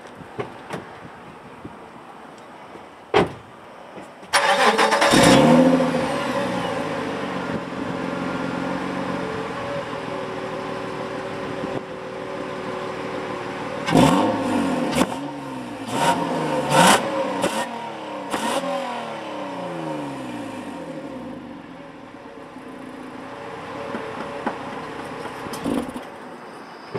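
Honda Legend KA9's 3.5-litre V6 through its stock muffler: a click, then the engine cranks and starts about four seconds in and settles to idle. Near the middle come about five quick throttle blips, each rising and falling, before it drops back to a steady idle.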